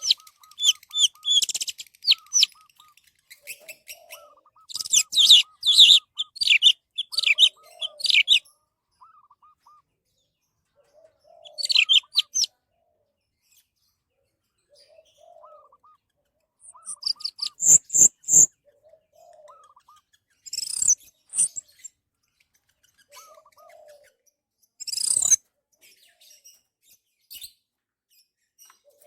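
Orange-headed thrush singing: phrases of rapid, varied high whistles and trills, separated by pauses of a few seconds. Quieter, short, lower notes repeat between the phrases.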